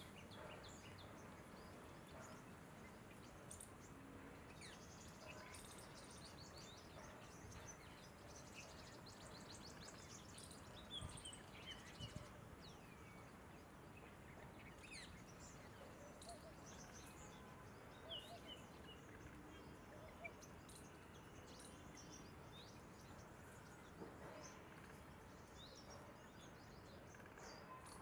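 Faint outdoor background hiss with many small, high bird chirps scattered throughout, and a few brief soft knocks around the middle.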